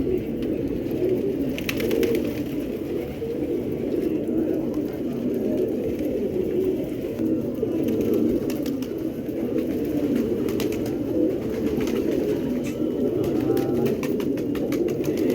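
Many domestic pigeons cooing together in a continuous low murmur, with a few sharp clicks among it.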